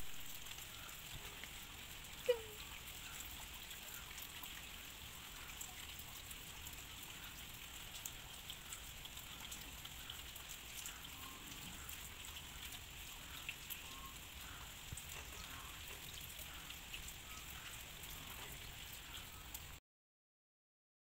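Steady rain falling on a concrete yard, a constant hiss with many small drop ticks. A single short, sharp sound about two seconds in, and the rain cuts off suddenly near the end.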